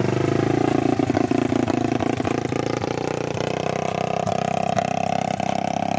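Four-wheeler (ATV) engine running steadily as it is ridden.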